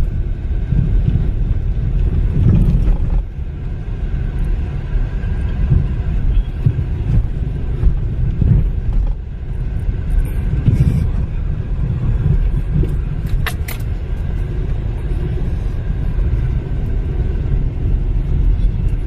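Car driving slowly over a rough, wet dirt road, heard from inside the cabin: a steady, uneven low rumble of engine and tyres jolting over the ground, with a couple of sharp clicks about two-thirds of the way through.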